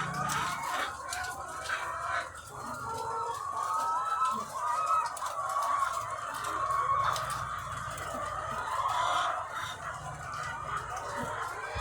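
A large flock of egg-laying hens clucking and calling over one another in a continuous dense chorus. A low steady hum runs underneath, with scattered sharp clicks.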